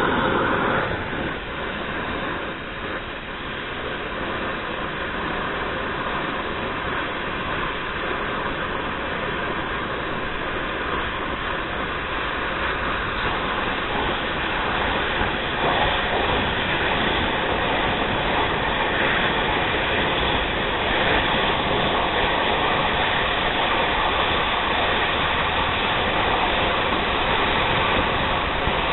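A piece of steel being cut off: a continuous steady noise that gets a little louder about halfway through.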